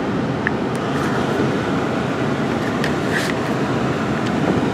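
Steady rushing noise inside a car's cabin from the heater blower and idling engine, with a couple of small handling clicks.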